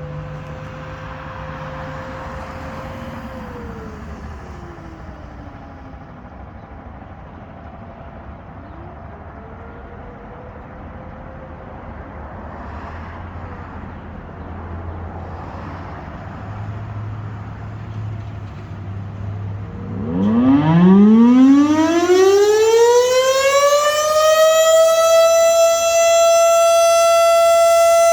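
Outdoor tornado warning sirens sounding for a drill. For the first twenty seconds a faint, distant siren rises and falls. Then, about twenty seconds in, a nearer siren winds up from a low pitch to a loud, steady wail and holds it.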